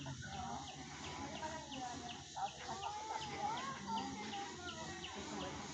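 Forest birds calling: one bird repeats a short falling chirp about two to three times a second while others give wavering calls.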